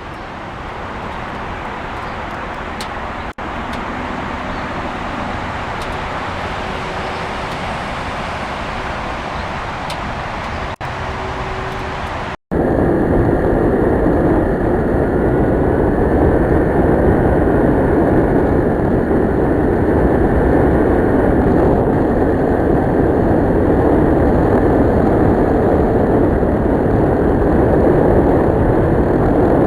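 Kawasaki Ninja 650R's parallel-twin engine running on the move, mixed with wind and road noise. The sound cuts out briefly a few times and is louder from about twelve seconds in.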